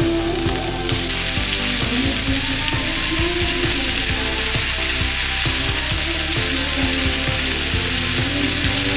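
Background music with a melody, and a steady sizzling hiss that starts about a second in as chicken pieces go into the hot pan with garlic and onion.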